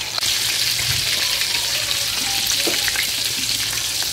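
Chicken kababs shallow-frying in hot oil in a pan: a steady sizzle with small crackles.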